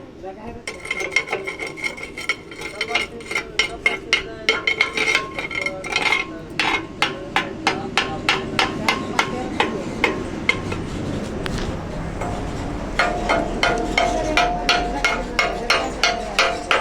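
Hammer striking welded metal over and over to chip off welding slag, about three sharp metallic strikes a second, with the metal ringing under them. The strikes slow to a lull around the middle, then pick up again near the end.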